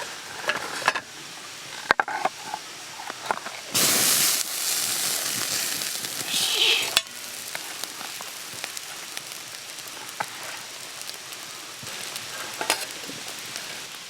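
Food frying in a hot pan: a loud sizzle starts suddenly about four seconds in and breaks off about three seconds later, with a quieter steady sizzle and light clicks and scrapes of utensils around it.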